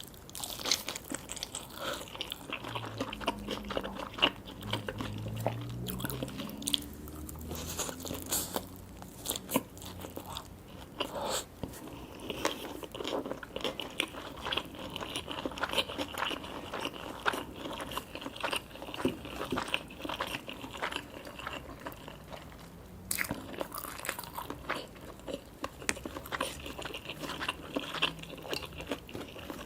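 Close-miked eating sounds: someone biting into and chewing crunchy food, with a steady run of irregular crisp crunches.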